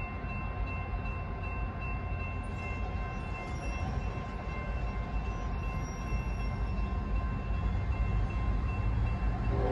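Freight train rumbling steadily, with a few steady high ringing tones over it.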